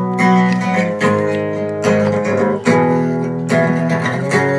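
Acoustic guitar strumming chords in an instrumental gap of a song, a new chord struck about once a second.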